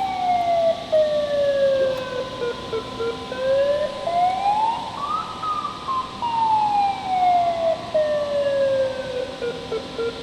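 A siren wailing slowly up and down: the pitch falls over about three seconds, climbs back in under two, then falls and starts to rise again near the end, over a steady fainter hum.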